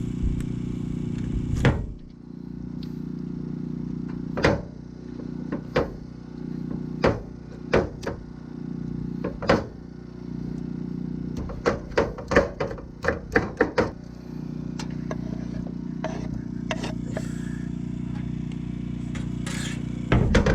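Crushing a fresh tomato by hand in a bowl: a series of short knocks and scrapes, with a quick run of them about twelve seconds in. A steady low motor hum runs underneath.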